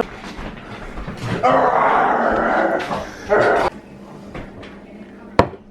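A small Coton de Tulear dog making vocal sounds in two stretches, the first about a second and a half long and the second shorter, followed by a single sharp click near the end.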